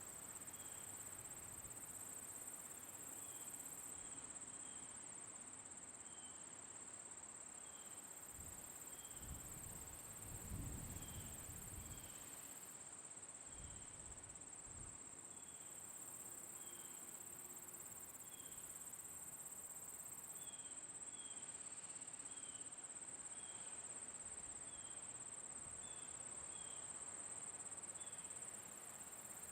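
Faint summer-night insect chorus: a continuous high, steady cricket trill, with short chirps repeating about once a second. A low rumble swells briefly about a third of the way in.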